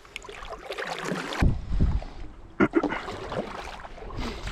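Kayak paddle strokes splashing in the water, with a few knocks and low thumps, the loudest about a second and a half in.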